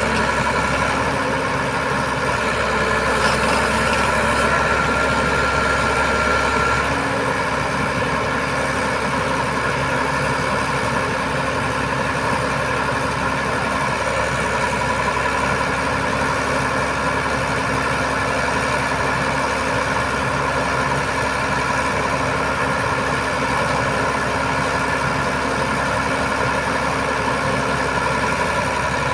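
Heavy diesel engine running steadily. A thin whine joins it from about four to seven seconds in, and at about seven seconds the low rumble eases off.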